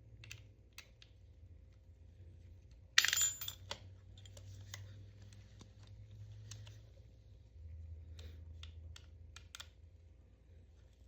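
Scattered sharp clicks and small knocks, like hard objects being handled, with one much louder short burst of noise about three seconds in.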